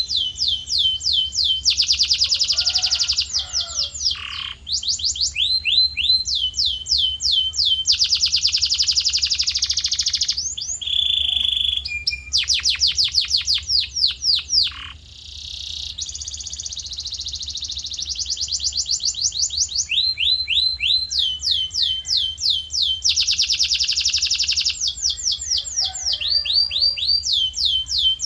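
Male canary in full song: long rolling runs of rapidly repeated high, sweeping notes, each phrase a fast string of identical syllables that gives way to a new phrase every second or two, with a brief steady whistled note near the middle. A faint low hum runs underneath.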